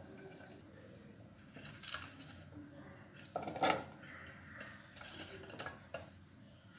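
Kitchen utensils and vessels being handled: a few separate clinks and knocks of metal kitchenware, the loudest about three and a half seconds in.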